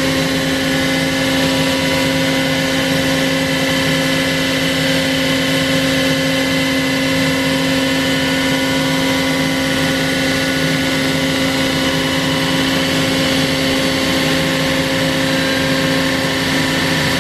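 CNC router running steadily while milling a wooden guitar neck: a constant whine of several steady tones over an even rushing noise, with no change in pitch or level.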